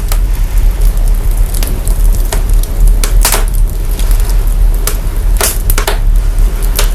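Fire crackling with sharp irregular pops, the loudest about three seconds in, over a deep steady sub-bass rumble brought out by heavy signal processing of the fire's own sound.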